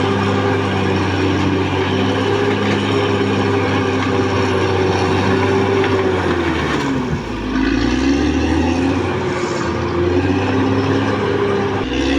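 Caterpillar D6R XL bulldozer's diesel engine running loudly and steadily at work; about seven seconds in the engine note drops and then climbs back.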